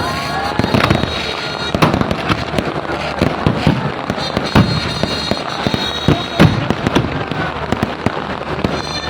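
Fireworks going off: a rapid, irregular string of sharp bangs and pops with no let-up.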